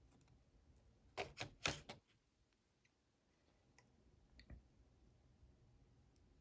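Small hard clicks of metal parts as the pin-tumbler core is dropped out of an American 1105 padlock body: three sharp clacks in quick succession about a second in, then a few faint ticks.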